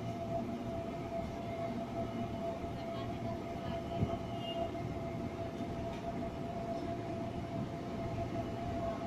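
Low rumble of an approaching train led by a CC 206 diesel-electric locomotive, with a steady high-pitched tone throughout and a single short knock about four seconds in.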